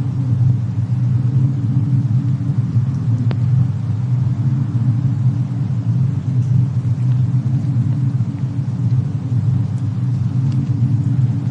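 Fireplace and snowstorm ambience: a steady low rumble of wind and fire with a few faint crackles, the clearest a single sharp pop about three seconds in.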